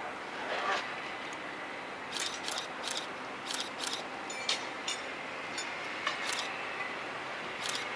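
A slow-moving passenger train rolling away into a tunnel: a steady rumble and hiss from the running gear with irregular sharp clicks and clanks.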